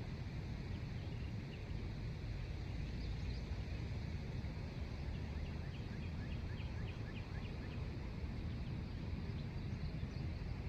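Outdoor ambience: a steady low rumble, with faint, quick bird chirps a few seconds in for several seconds and again near the end.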